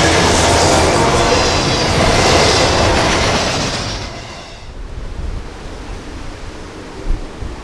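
Freight train rolling by, its wheels clattering on the rails with high squealing tones. The sound fades away about four seconds in, leaving wind noise on the microphone.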